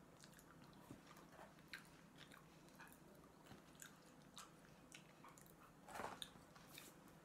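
Faint mouth noises of someone chewing food, with small scattered clicks and one slightly louder smack or crunch about six seconds in.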